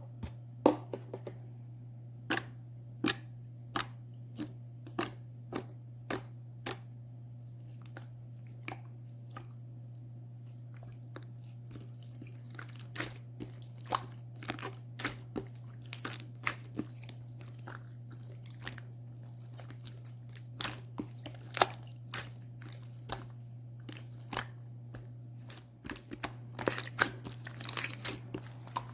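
Clear slime being pressed and worked by hand, giving sharp sticky clicks and pops, about one every half second at first, then irregular, with a quick flurry near the end.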